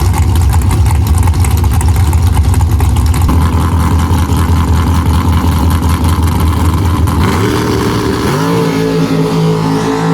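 Drag race car engine at full throttle during a quarter-mile pass, loud and unbroken for about seven seconds. Near the end the roar gives way to a lighter, steadier note as the car comes off the throttle after the finish.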